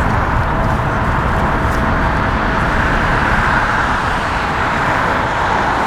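Boeing 777 freighter's twin GE90 turbofan engines running, a steady even jet roar heard across the apron, with a faint steady whine mixed in.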